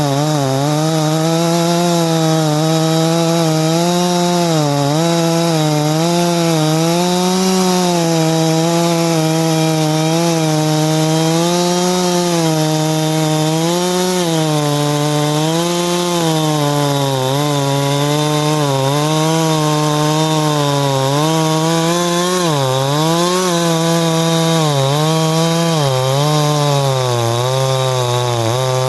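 Ported Farmertec G372XT two-stroke chainsaw cutting through dry, old wood under full throttle, its engine speed sagging under load and recovering again and again. The owner feels the saw still lacks pull and may need more ignition timing advance.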